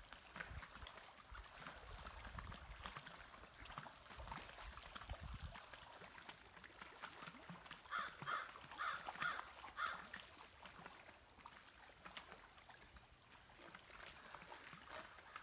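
Quiet wilderness ambience with a bird calling: a quick run of about five calls around eight to ten seconds in, with fainter scattered calls before it.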